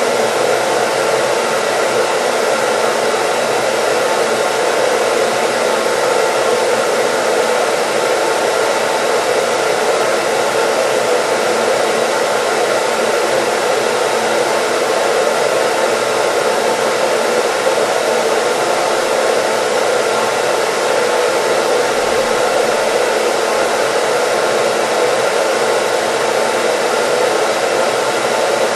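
Hair dryer running steadily: a continuous, even airflow noise with a faint motor hum and no change in speed.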